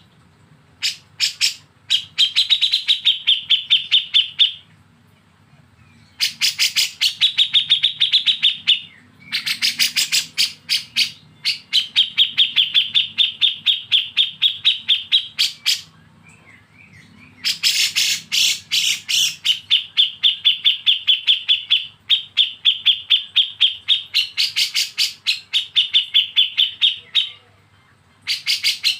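Songbird giving rapid 'besetan' bursts: fast runs of sharp, evenly repeated chirps, about eight to ten a second, in bouts of several seconds broken by short pauses.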